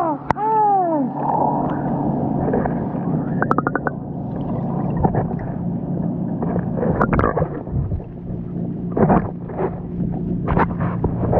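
Water sloshing, splashing and gurgling in a backyard pool with a person in it, over a steady low hum. A last rising-and-falling whooping call dies away in the first second.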